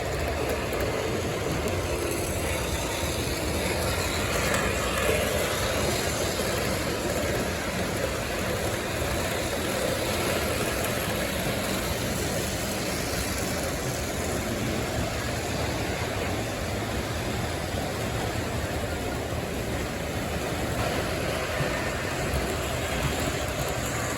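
O gauge model trains running on a layout: a steady, unbroken mix of motor hum and wheel noise on the track.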